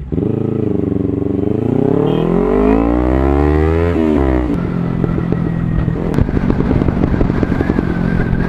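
Motorcycle engine accelerating, its pitch rising for about three seconds and then dropping abruptly about four seconds in, after which it runs on at a steady pitch.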